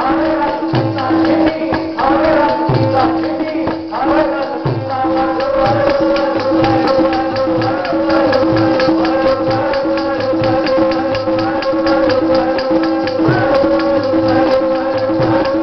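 Sikh kirtan: a voice singing gurbani over a steady harmonium drone. Low hand-drum strokes and fast, dense jingling percussion keep the rhythm throughout.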